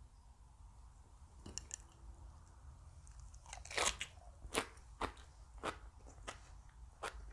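Chewing crunchy raw vegetables, picked up close: a loud crisp bite about three and a half seconds in, then steady crunching about twice a second. A few faint clicks come before it, about a second and a half in.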